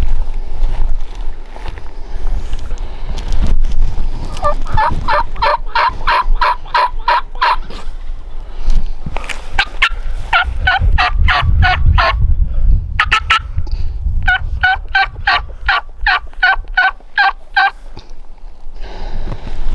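Turkey yelping: three runs of evenly spaced yelps, about three or four notes a second, plus one short burst, with a low rumble underneath.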